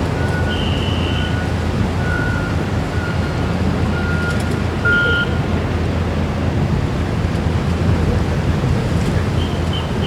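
Steady low rumble and wind on the microphone, with faint short beeps repeating about once a second over it and a few higher chirps.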